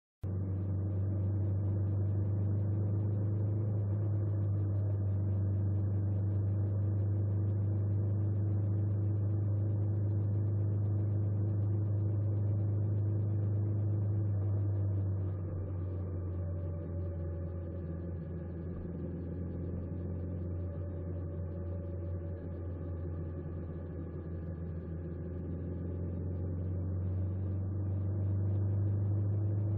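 An engine running steadily with a deep, even hum, its pitch holding nearly constant; it eases a little in level about halfway through and comes back up near the end.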